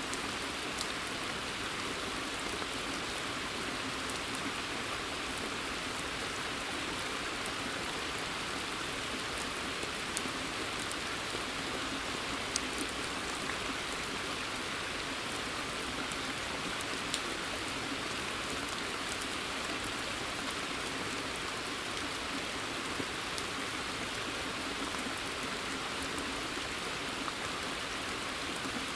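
Steady rain falling in a forest, an even hiss of many drops, with a few sharper single drops ticking now and then.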